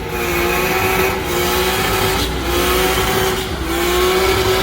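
A car engine accelerating hard, its note rising and breaking briefly three times.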